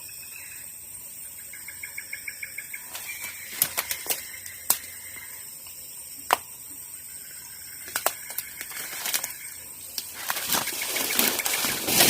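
Short trilled chirping about two seconds in, then a handful of sharp clicks spread through the middle, and from about ten seconds in a louder stretch of rustling noise.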